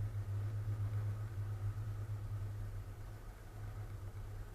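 Wind rumbling steadily on an action camera's microphone during a parasail flight, a low hum with no speech.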